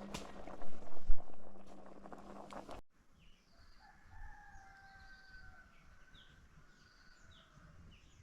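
A few loud knocks about a second in over a noisy background with a low hum. After an abrupt cut, a quieter stretch follows with long drawn-out fowl calls, typical of a rooster crowing, and short chirps from small birds.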